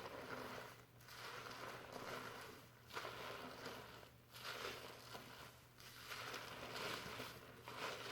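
Fingers scrubbing shampoo lather through hair: a soft crackling, rustling foam sound in strokes of one to two seconds with short breaks between them.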